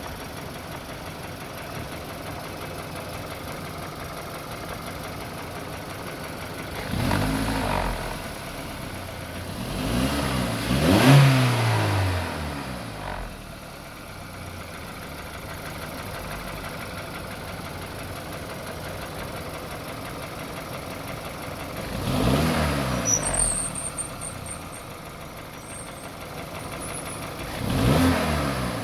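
VW Golf Mk5 1.6 FSI four-cylinder petrol engine idling, blipped up in revs and back down several times. A slight top-end rattle is said to be hydraulic lifter noise.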